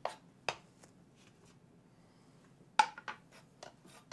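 Chef's knife striking a cutting board as shiitake mushrooms are cut into thin slices: two sharp knocks near the start, then a quick run of several, the loudest, about three seconds in.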